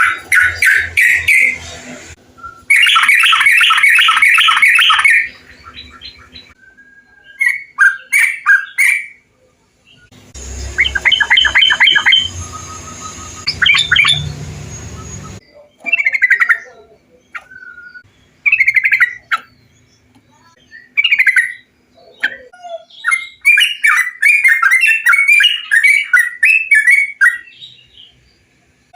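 Bulbuls (trucukan) singing: loud bubbly phrases of rapid repeated notes alternating with short single whistled phrases, taken from several recordings joined one after another.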